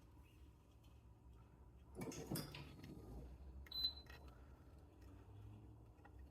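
Quiet handling noises from stringing a badminton racquet: a short rustling clatter about two seconds in, then a sharp click with a brief high beep near the four-second mark.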